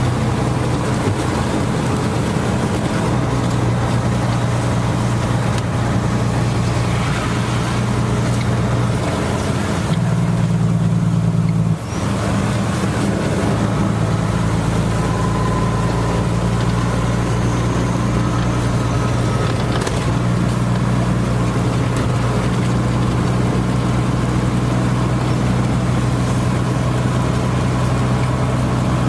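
Steady rain hiss over a steady low engine-like hum. The hum shifts around ten seconds in and cuts out for an instant near twelve seconds.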